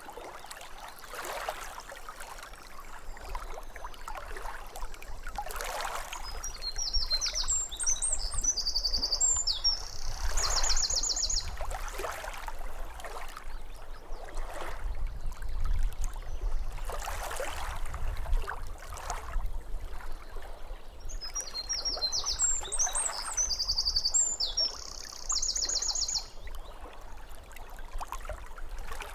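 Small waves lapping at a lake shore, with soft splashes every second or two over a low rumble. A songbird sings the same short high phrase twice, each ending in a rapid trill.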